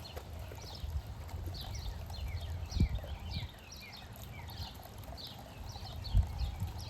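Small birds chirping continuously, a dense run of short, falling chirps, over low rumbling knocks, with two louder thumps about three seconds in and near the end.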